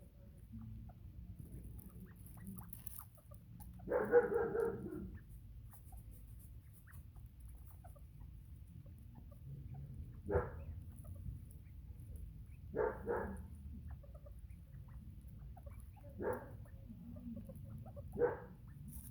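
Neighbouring dogs barking: a longer run of barks about four seconds in, then single short barks every few seconds, two close together near the middle.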